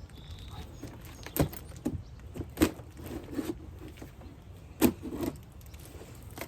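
Several sharp clicks and knocks of hard parts being handled, as a new strut tower bar and its hardware are unpacked.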